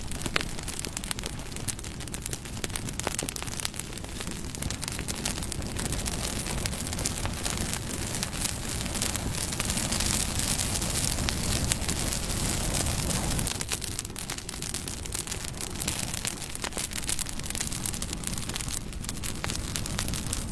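Bonfire burning, with many small sharp crackles and snaps over a steady low rumble of the flames, a little louder for a few seconds in the middle.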